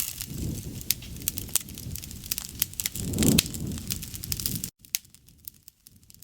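Campfire crackling, with sharp pops over a low rumble that swells about three seconds in; a little before the end the sound drops abruptly to faint, sparse crackles.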